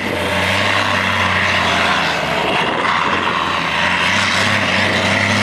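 Loud engine of a pulling vehicle running steadily under load, a deep even drone with no clear revving.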